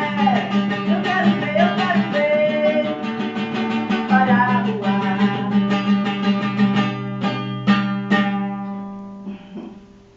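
Acoustic guitar strumming chords under a singing voice, ending with three final strums that ring out and fade away.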